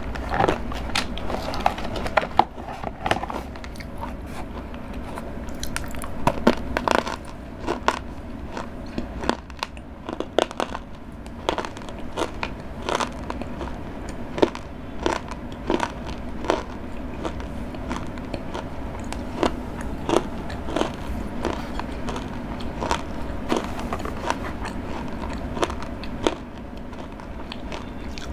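A person chewing and biting Cadbury Dairy Milk chocolate close to a clip-on microphone, heard as an irregular run of crisp crunches and wet mouth clicks.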